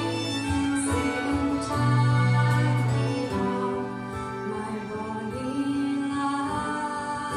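Live Scottish folk song: a woman singing with instrumental accompaniment, long held notes changing every second or so.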